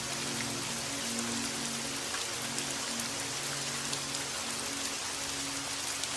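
Steady rain, an even hiss with scattered sharp drop ticks, over soft background music of low held notes.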